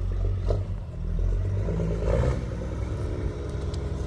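Vehicle engine running steadily at low speed during slow manoeuvring, with a few light knocks.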